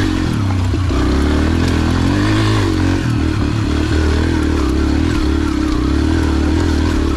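Small dirt bike engine running hard under load as it climbs, its pitch stepping up and down as the throttle is worked.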